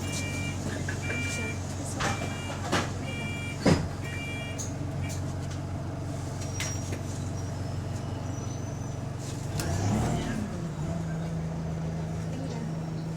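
Bus engine running steadily, a bus with an exhaust leak. Repeated electronic beeping and a few sharp knocks come in the first four seconds; about ten seconds in the engine note shifts and settles into a higher steady hum.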